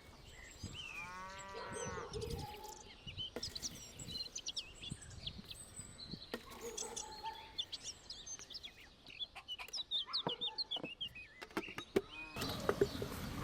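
A cow moos once, a drawn-out call about a second in. Small birds chirp throughout, with a few scattered clicks.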